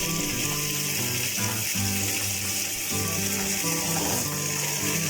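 Marinated chicken pieces sizzling steadily as they fry in oil on a flat tawa, over background music.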